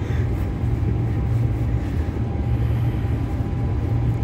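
Inside a Transperth B-series electric multiple unit running at speed: a steady low rumble of wheels and motors, with a faint steady whine above it.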